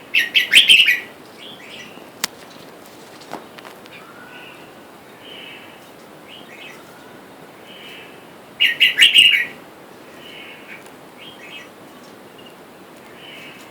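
Red-whiskered bulbuls calling: two loud bursts of quick, chirpy notes, each about a second long, one at the start and one about two-thirds through, with softer calls between. A single sharp click comes about two seconds in.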